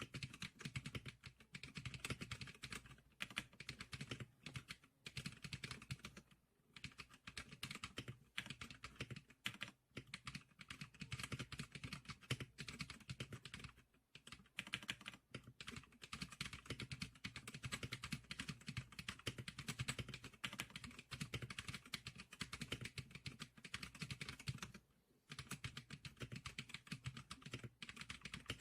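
Typing on an SPK100 keyboard: a fast, continuous run of keystroke clicks, broken by a few short pauses.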